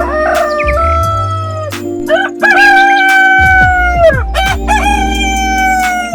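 Rooster crowing: several long crows one after another, each ending in a falling tail, over steady background music.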